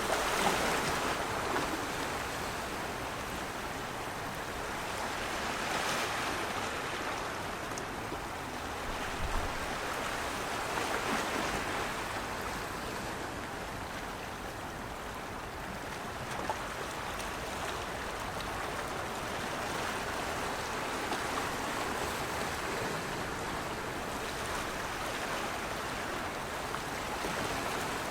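Steady rush of water, swelling and easing gently every several seconds.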